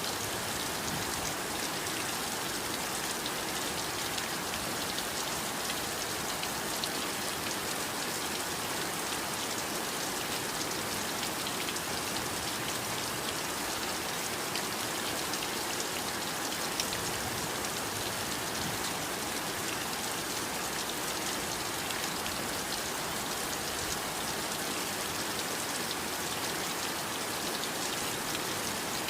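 Heavy rain falling steadily, a dense even hiss with fine patter of individual drops throughout.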